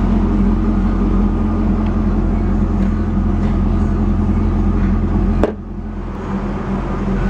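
A 2001 Camaro Z28's 5.7-litre V8 idling steadily with a deep, even low hum. About five and a half seconds in there is a sharp click, and the engine then sounds quieter.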